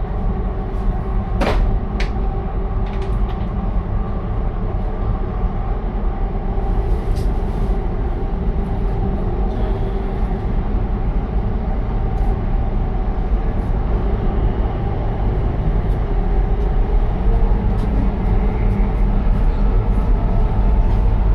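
Steady low rumble of a train in motion, with a few sharp clicks near the start.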